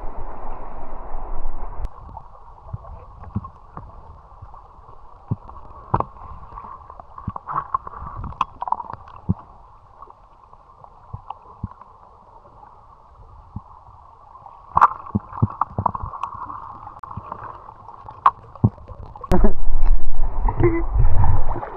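Muffled water gurgling and sloshing with scattered sharp clicks and knocks, and a louder low rumble for about two seconds near the end.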